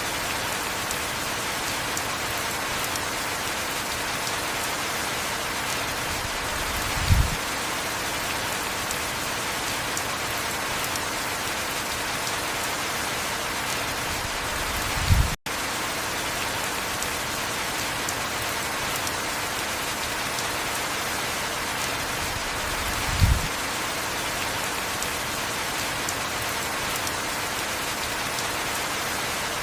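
Heavy rain falling steadily, a dense even hiss, with a short low thump about every eight seconds and a momentary cut-out about halfway through.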